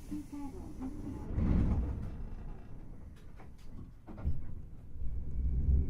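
Inside Hankai Tramway car 351: low running rumble with scattered clicks and knocks, dipping quiet about four seconds in, then growing louder with a steady low hum near the end as the tram gets under way.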